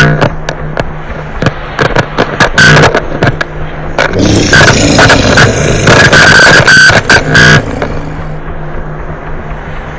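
Harsh noise music: distorted, clipping bursts and stabs of noise over a steady low hum. About seven and a half seconds in the bursts stop, leaving a quieter droning hiss and hum.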